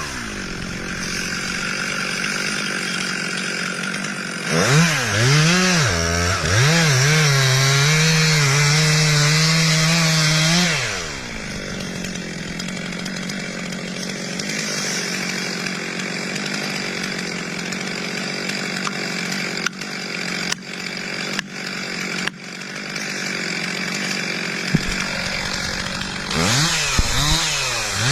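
Chainsaw running and cutting timber, its engine revving up and down. In a long middle stretch the engine tone gives way to a steadier, noisier sound with a few sharp knocks, and the revving returns near the end.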